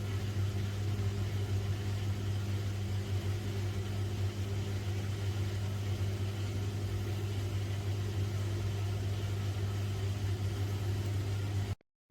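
Gorenje WPAM74SA1T slim front-loading washing machine on a high-speed spin: a steady low motor hum with drum rumble, holding an even speed.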